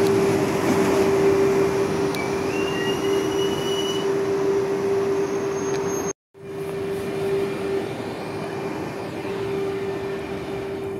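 Double-deck Rodalies electric commuter train running past the platform with a steady hum and a thin wheel squeal a few seconds in. The sound drops out briefly about six seconds in. After that an approaching single-deck electric multiple unit runs on the track with the same steady hum.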